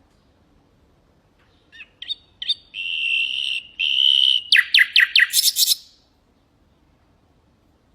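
Nightingale singing one phrase, beginning about two seconds in: a few short clipped notes, two held whistled notes, then a quick run of falling notes that ends abruptly.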